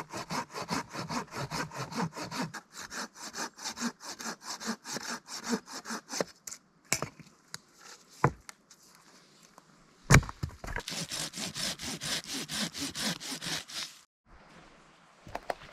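Hand saw cutting dead campfire wood in quick, even back-and-forth strokes. It pauses for a few seconds with a few knocks, the loudest a thump about ten seconds in, then saws again briefly and stops.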